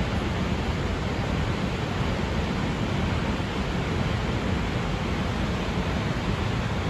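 Steady roar of Snoqualmie Falls, a large waterfall, a constant rush of falling water with no breaks.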